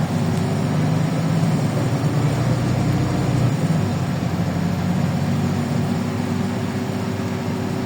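LiAZ 5292.65 city bus engine running steadily, heard from inside the bus as a low drone whose deepest rumble drops away about three and a half seconds in.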